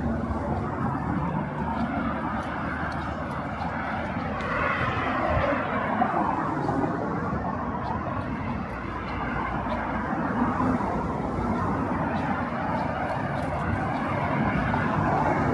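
Outdoor city street ambience: a steady engine rumble with a sweep that rises and falls about five seconds in, over faint voices.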